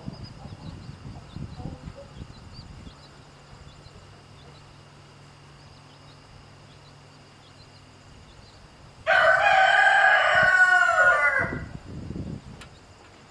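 A rooster crows once, loud and about two and a half seconds long, its pitch dropping at the end. Chicks peep faintly before the crow.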